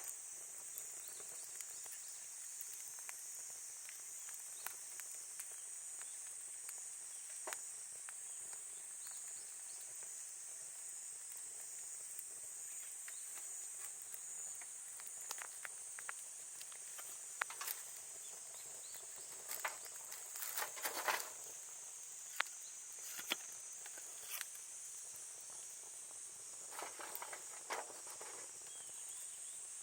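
A steady, high-pitched chorus of insects, with scattered sharp crackles and pops from a wood campfire, bunched in a few short flurries.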